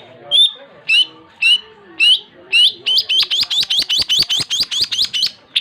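Long-tailed shrike (cendet) singing: sharp, upslurred whistled notes about twice a second, breaking about three seconds in into a fast run of about seven notes a second.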